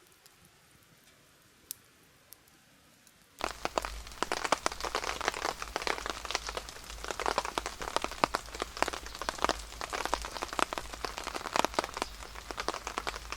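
Rain: a few isolated drips at first, then about three seconds in a dense patter of raindrops starts abruptly and keeps on steadily.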